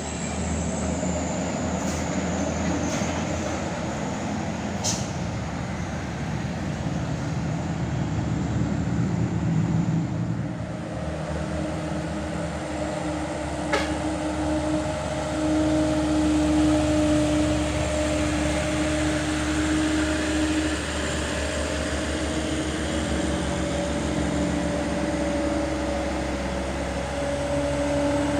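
Heavy truck's diesel engine pulling hard up a steep climb: a continuous low drone, with a steady higher tone joining about ten seconds in. A few short sharp clicks sound in the first five seconds and once more near the middle.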